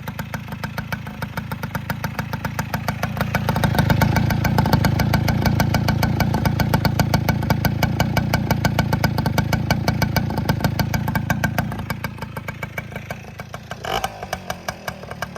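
1996 Tomos Sprint moped's single-cylinder two-stroke engine running at a steady idle with a fast, even exhaust beat, freshly rebuilt with new piston rings and running for the first time. A few seconds in it rises and stays louder, then settles back down about three-quarters of the way through.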